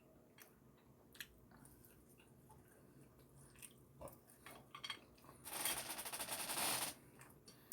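Biting and chewing a chunk of oven-baked chicken with a crunchy Cheetos crust. Faint scattered clicks come first, then a dense crunching burst lasting over a second near the end.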